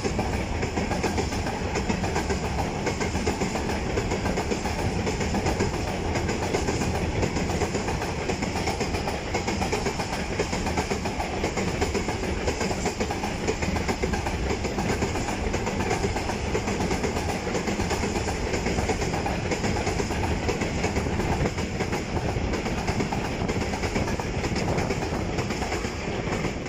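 Long freight train of open coal wagons rolling past at speed, the steady noise of its wheels running over the rails.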